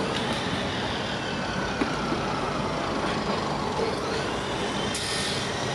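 ALS-class diesel-electric locomotive of a passenger train running with a steady mechanical drone and a faint whine gliding in pitch.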